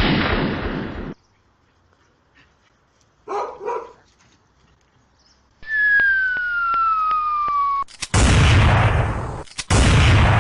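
A short dog vocalisation amid a series of abrupt noises: a loud hissing burst that cuts off about a second in, a whistle falling steadily in pitch with evenly spaced ticks, then two loud rushing bursts near the end.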